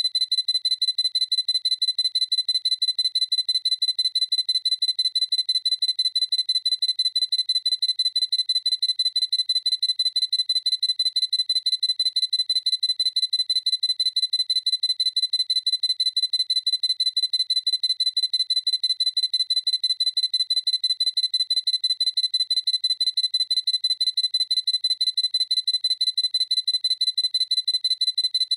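Sony A7C camera's autofocus beep, the high electronic tone it sounds when focus locks, repeated rapidly and evenly, several beeps a second.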